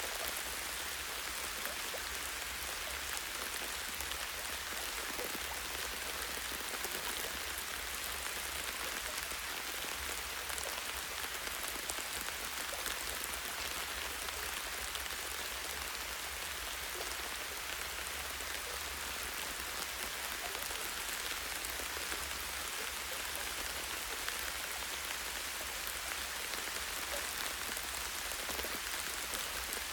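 Light rain falling steadily on a tree branch: a dense, even patter of drops that never lets up.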